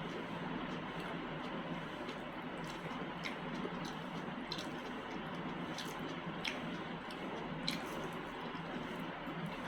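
Wet, squishy eating sounds from a saucy chicken masala and mutton liver gravy meal, with about six short, sharp wet clicks and smacks scattered through it over a steady background hiss.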